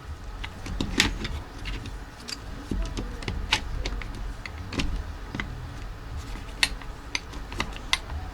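Irregular clicks and taps of small parts and hand tools being handled on a workbench, the loudest about a second in, over a steady low hum.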